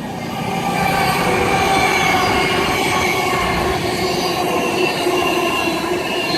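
Class 390 Pendolino electric train running through the station, a steady rumble of wheels on rail with a faint high squeal of wheels on the track.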